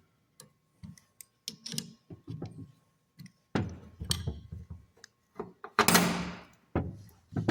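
Metal hand tools clicking and knocking against the baler's knotter parts while a part is worked loose: a scatter of small sharp clicks, then heavier clanks, the loudest about six seconds in.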